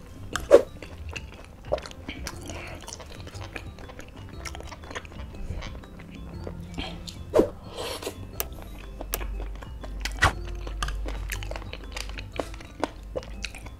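Close-up chewing and wet mouth smacks of someone eating spicy boneless chicken feet and noodles, with a few sharp louder clicks, over quiet background music.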